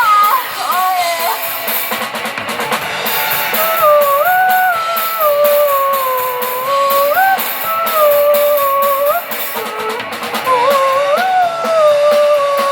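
Live rock band playing: drum kit and guitars under a sliding melodic lead line.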